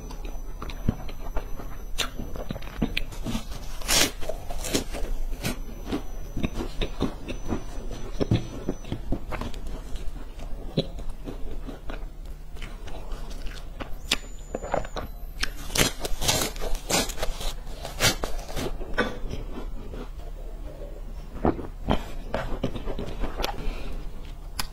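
Close-miked crunching and chewing of crisp, flaky stick snacks: many sharp crunches of bites and chews, thickest and loudest in a run a little past the middle, over a steady low electrical hum.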